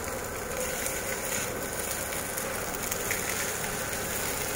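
Fried rice sizzling in a wok as a spatula stirs and scrapes it, a steady frying hiss with a few light scrapes.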